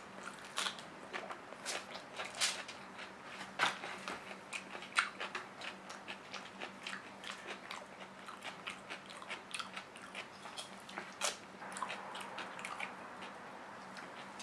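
A person biting and chewing fresh cucumber slices close to the microphone: irregular crisp crunches and wet mouth clicks, several a second.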